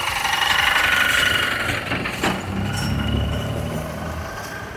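A motor vehicle's engine running close by in street traffic. A high whine sounds for the first two seconds, then a sharp click about two seconds in, then a low engine rumble.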